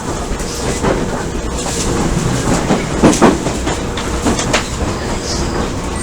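Odakyu 1000 series electric train running, heard from inside the passenger car: steady running noise with wheels knocking irregularly over rail joints and points, the heaviest knocks a little past halfway.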